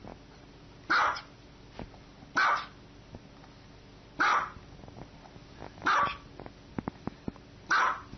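A small dog barking: five short, sharp single barks, one about every second and a half to two seconds.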